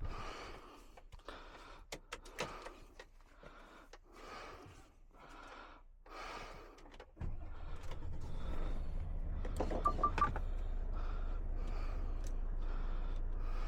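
A few clicks and rustles inside a truck cab. About seven seconds in, the truck's diesel engine comes on and settles into a steady low idle. Three short beeps sound from the dashboard around ten seconds in.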